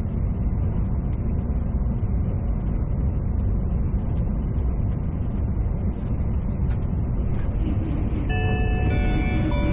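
Steady low rumble of an E657-series limited express train running at speed, heard from inside the passenger car. About eight seconds in, the onboard announcement chime starts playing a short melody.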